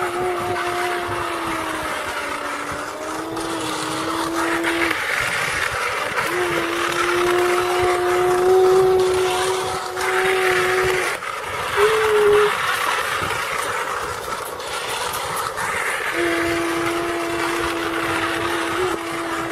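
Battery-operated toy trains running on a plastic track, their motors and wheels making a steady whirring rattle. Over it, a toy locomotive's electronic whistle sounds in long held notes, three times, with a short toot about twelve seconds in.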